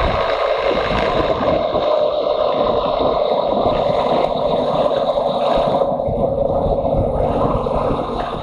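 A motorcycle underway at a steady pace: its engine drones under wind rushing over the microphone.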